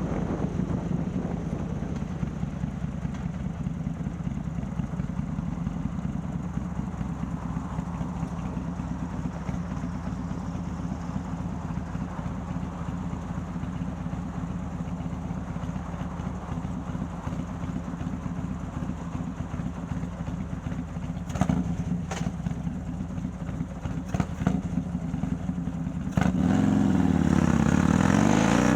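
Harley-Davidson Milwaukee-Eight V-twin, bored out to 130ci and breathing through a ThunderHeader exhaust, running steadily while the bike cruises. There are a few short clicks in the last third. About two seconds before the end the engine gets suddenly louder, and its pitch dips and then climbs as the bike accelerates.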